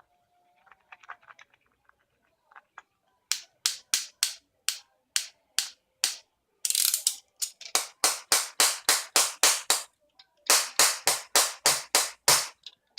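Rapid series of sharp strikes on an iPhone's tempered-glass screen protector, starting about three seconds in after some faint clicking. The strikes come at about three a second, then about four a second, with a short pause near ten seconds.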